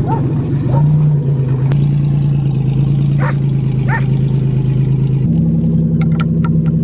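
Car engine running at a steady idle, stepping up in speed a little about a second in and again about five seconds in.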